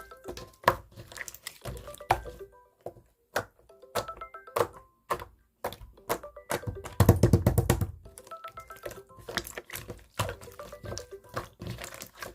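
Clear slime being pressed and stretched by hand, giving sharp clicks and air-bubble pops, with a fast, loud run of pops about seven seconds in. Soft background music plays underneath.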